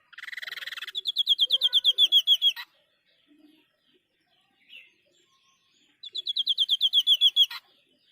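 White-breasted babbler singing its 'tembakan' (shot) song: two bursts of rapid repeated notes, about ten a second. The first opens with a short buzzy rattle; the second comes about six seconds in.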